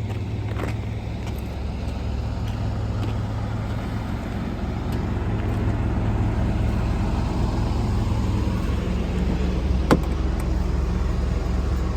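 Semi-truck engine running steadily at idle, a low even hum that grows a little louder about halfway through, with one sharp click about ten seconds in.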